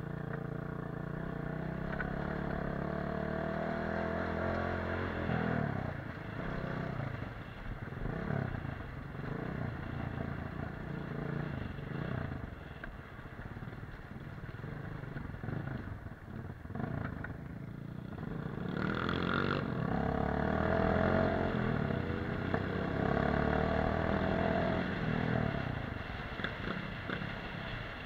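Off-road dirt bike engine under way, revs rising and falling over and over as the throttle is worked, with a few steadier stretches of higher revs.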